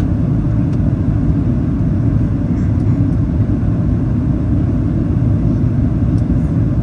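Steady low rumble of cabin noise inside a Boeing 737-800 in flight on approach, from the engines and the airflow over the fuselage.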